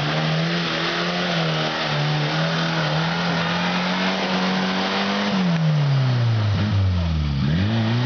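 Suzuki off-roader's engine revved hard under load as it works up a muddy rut, held high and slowly climbing, then the revs drop about five seconds in and rise and fall in short blips.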